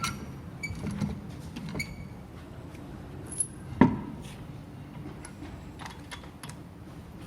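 Scattered metallic clinks and knocks as steel wheel bolts and tools are handled during wheel removal, some with a short ring. One louder knock comes about halfway through.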